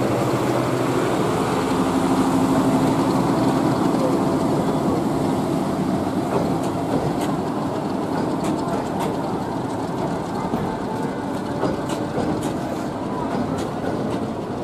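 Bangladesh Railway passenger coaches rolling past along the platform: a steady rumble and clatter of wheels on the rails, with sharp clicks from about six seconds in. It eases off slightly toward the end.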